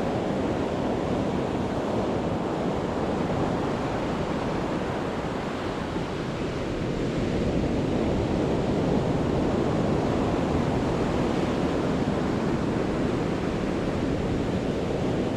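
Mediterranean sea surf breaking and washing on the shore: a continuous rush that swells a little about halfway through.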